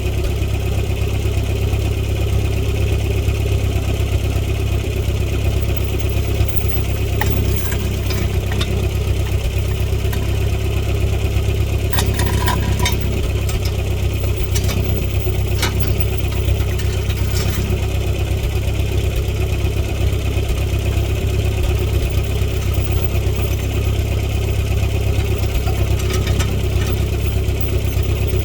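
Tractor engine idling steadily, with a few brief sharp clicks scattered through.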